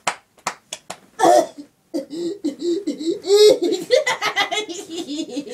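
A teenage girl laughing hard: a few short sharp gasps and a loud breathy burst about a second in, then a long run of rhythmic, pitched laughter from about two seconds on.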